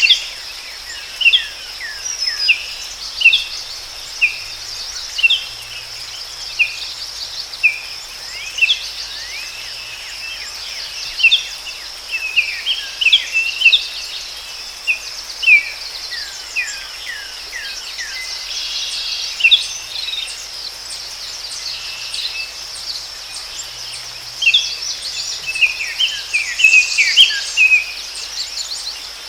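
Forest ambience: a steady, high-pitched insect drone, with many short, sharp bird chirps that sweep downward, coming about once a second, thickest at the start and again near the end.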